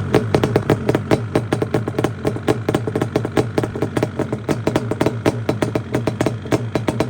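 Yamaha Banshee's twin-cylinder two-stroke engine idling with a rapid, uneven beat, warming up after a cold start with the choke pushed back in.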